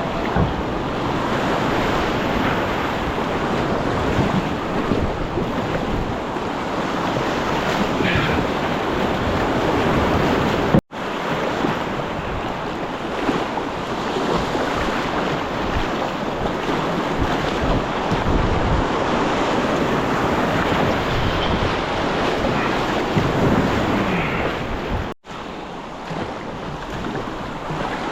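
Rushing river water with wind buffeting the microphone, a steady loud noise with no pitch, broken by two sudden brief drop-outs about 11 and 25 seconds in.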